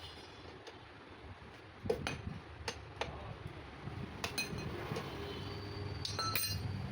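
Metal tools and parts clinking and knocking: a handful of sharp metallic clinks, some ringing briefly, over a low background rumble that sets in about two seconds in.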